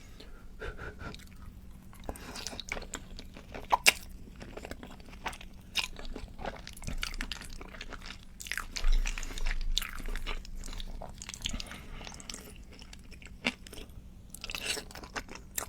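Close-up eating sounds of creamy Cajun Alfredo pasta with kielbasa sausage being bitten and chewed, with scattered sharp clicks and short bursts, the loudest about four seconds in and again around nine seconds.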